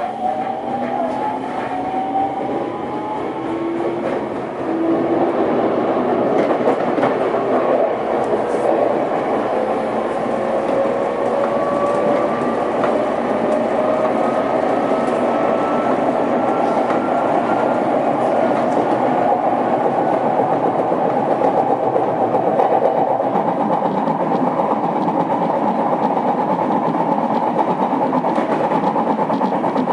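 Odakyu 2000 series electric train heard from inside the car, accelerating: the traction motors' whine climbs slowly in pitch over the first twenty seconds, over loud, steady wheel-and-rail running noise. The running noise carries the knock of a flat spot on a wheel.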